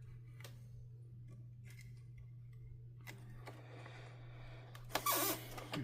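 Plastic housing parts of a canister vacuum being handled and worked loose by hand: a few faint clicks, then scraping and rattling that grows louder about five seconds in, over a steady low hum.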